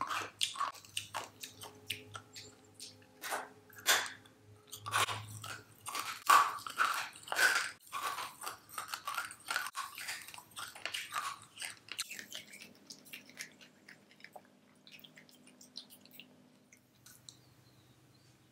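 Close-up crunching and chewing of a Phantom sweet cigarette, a hard chalky candy stick, with many sharp bites and crunches. The crunches are densest over the first twelve seconds, after which only faint, quieter chewing remains.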